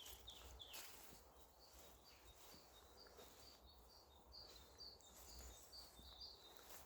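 Quiet outdoor background with a bird's short, high chirp repeated about twice a second, starting about a second and a half in, over a faint low rumble.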